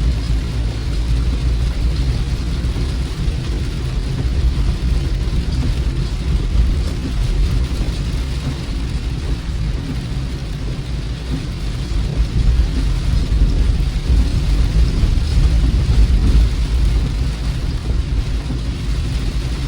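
A car driving in the rain, heard from inside the cabin: a steady deep road and engine rumble with a hiss of rain over it.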